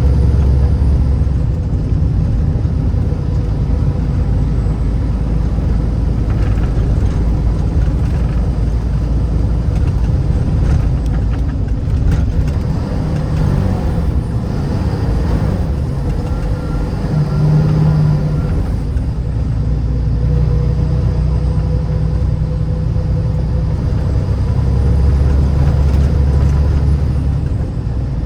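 Vehicle being driven, a steady low rumble of engine and road noise.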